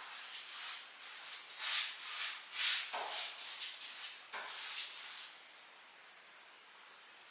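A series of irregular rubbing or scraping strokes, some short and some longer. They stop about five seconds in, leaving a faint hiss.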